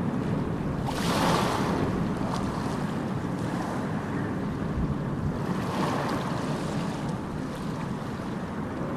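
Sea waves breaking and washing in a steady surf. One wave crashes more brightly about a second in and another swells near six seconds.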